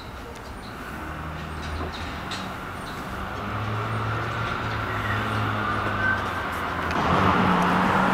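Vehicle noise: a steady low engine hum with rumbling noise over it, growing louder, most of all near the end.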